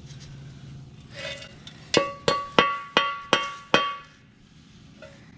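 Six quick metallic clinks, a piece of metal being tapped against metal, each strike ringing at the same pitch, about three a second, preceded by a brief scuff.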